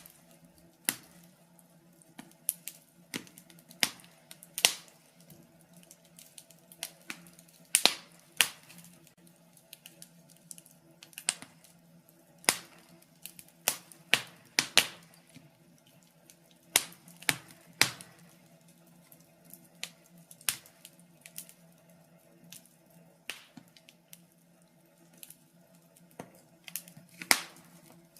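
Wood fire crackling: irregular sharp pops and snaps, some in quick clusters, over a faint steady low hum.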